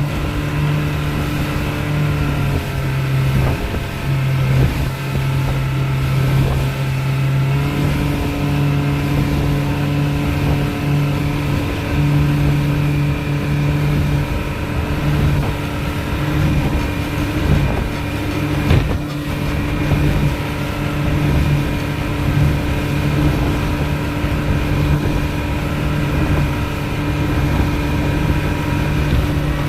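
Speedboat engine running steadily at speed, its pitch shifting up and down a little with the throttle and the waves. There is one sharp thump about two-thirds of the way through.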